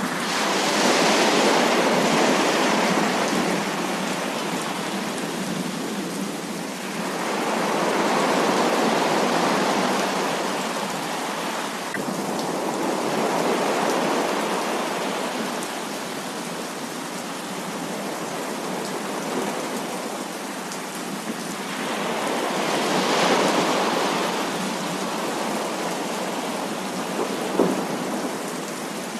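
Heavy rain falling steadily, with long rolls of thunder that swell and fade several times: one about a second in, others near the middle, and one a few seconds before the end. A single short sharp tick comes shortly before the end.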